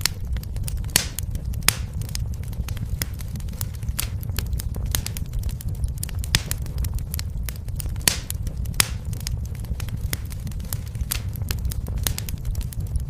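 Fire burning in a fireplace: irregular crackles and sharp pops over a steady low rumble, with a few louder pops about a second in and again around eight seconds.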